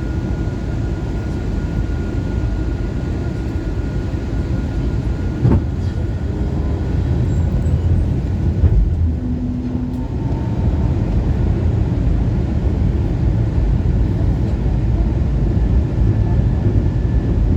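Steady low rumble of an Airbus A321neo cabin during descent, with a single thump about five and a half seconds in.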